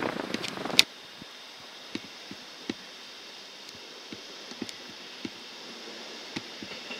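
Loud train noise cuts off suddenly with a sharp click under a second in. Then a double-deck Regional-Express train approaching slowly over the points is heard faintly: a quiet steady hiss with scattered light clicks, growing slowly towards the end.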